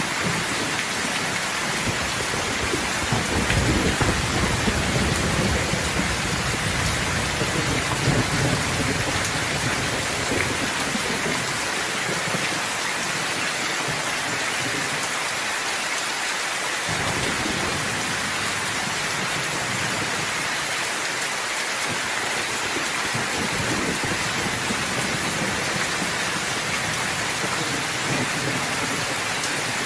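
Steady, heavy rain hissing down, with low rolling thunder rumbling through the first third and fading, then fainter distant rumbles later on.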